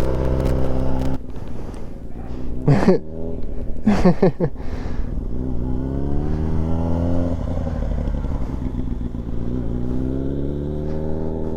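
Yamaha R6 sport bike's inline-four engine running at low revs as it is ridden slowly, its pitch rising and falling with small throttle changes. Two brief, loud gliding sounds cut in about three and four seconds in.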